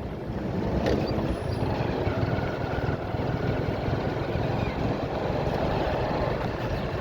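Motorcycle on the move: a steady rumble of engine and road noise, with a single sharp click about a second in.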